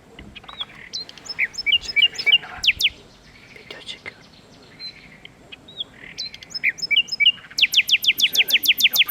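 Common nightingale singing: two phrases of varied chirps and whistled notes, the second ending near the end in a fast run of loud repeated notes, about ten a second.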